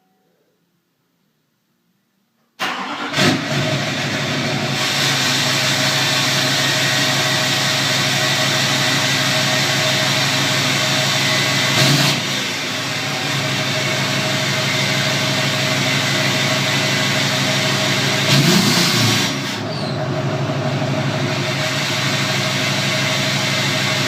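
Duramax 6.6-litre turbodiesel V8 of a Chevrolet Silverado 2500HD starting up suddenly about two and a half seconds in, running through a 5-inch Flo-Pro exhaust and downpipe. It flares on catching, settles into a steady idle, and rises briefly twice, at about 12 and 18 seconds.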